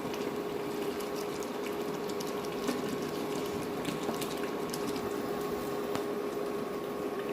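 Chicken and onion gravy simmering in a pan over raised heat: a steady bubbling sizzle with scattered small pops and spits, under a steady hum.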